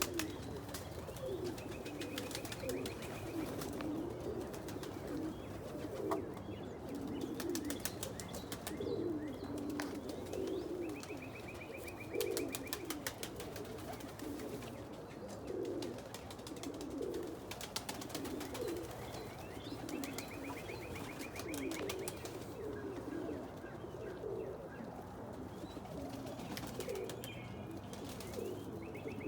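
Homing pigeons cooing in a loft, many overlapping low coos one after another. A faint high trill repeats a few times.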